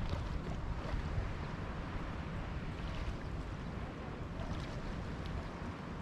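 Wind buffeting the microphone with a low rumble over the steady wash of sea surf.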